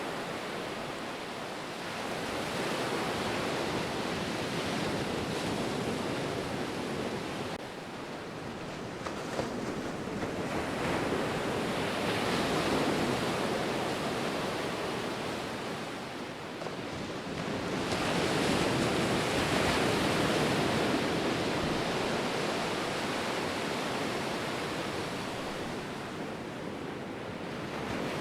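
Ocean surf: a steady wash of breaking waves that swells and eases slowly, with two stronger surges near the middle and in the second half.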